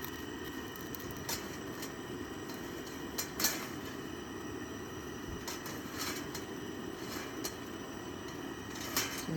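Steady low roar of a Snow Peak Gōen high-output gas burner, with a few sharp metallic clinks over it.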